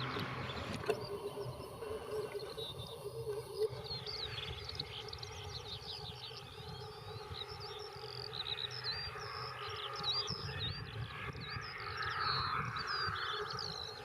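Small birds chirping, many short rising and falling notes from about four seconds in, over a steady wind rumble on the microphone.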